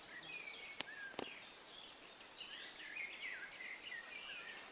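Small birds chirping and twittering faintly, busiest in the second half, with two faint clicks about a second in.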